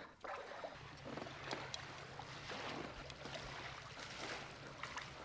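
Water lapping and trickling against a small boat's hull, with scattered small knocks and clicks. A faint steady low hum comes in about a second in.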